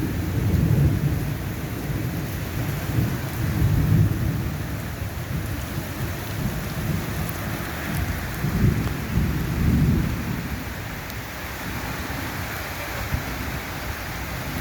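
Thunder rumbling over steady heavy rain. The low rumble swells in the first few seconds and again about nine seconds in, then eases off.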